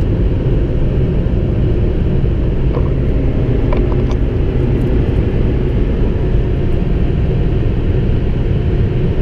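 Steady low rumble of engine, tyres and wind inside a car's cabin, driven flat out at high speed close to its speed limiter.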